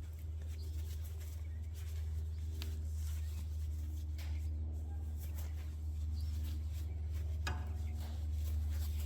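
A steady low hum with scattered faint clicks and taps of small parts being handled, one a little sharper near the end.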